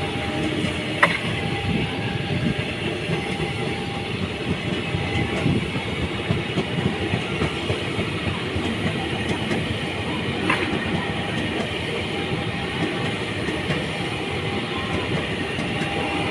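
Train running past on the rails: a steady rumble of wheels and carriages, with two sharp clacks, one about a second in and one near ten seconds in.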